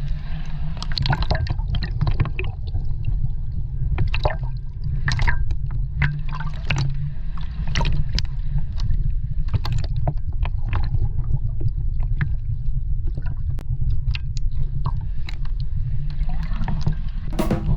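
Seawater sloshing and splashing among rocks, with many irregular small splashes and gurgles over a steady low rumble.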